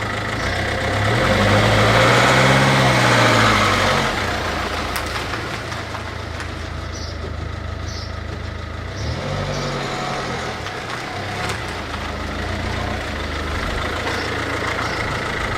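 MINI R56's 1.6 HDi DV6 four-cylinder diesel engine idling. It is revved up and let fall back about a second in, then given a smaller blip of revs midway.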